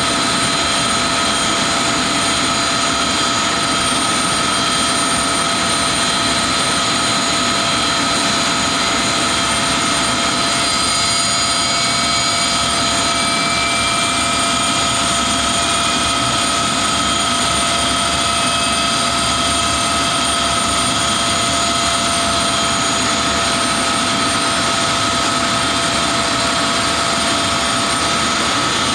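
Avro Vulcan XM655's Rolls-Royce Olympus turbojets running steadily: a loud, even jet rush with several high, unchanging whine tones over it.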